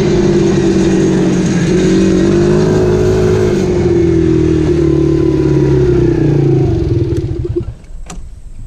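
Dirt bike engine running under throttle, its pitch wavering up and down. About seven seconds in the engine note falls away and gets much quieter as the throttle is let off, with a couple of sharp knocks near the end.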